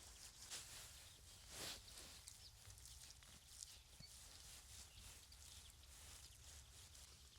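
Near silence: faint rustling and light clicks over a low steady hum, with one slightly louder rustle about two seconds in.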